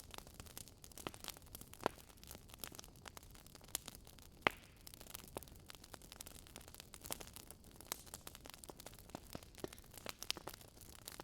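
Wood fire crackling in a fireplace: irregular sharp pops and snaps, the loudest about four and a half seconds in, over a faint steady hiss.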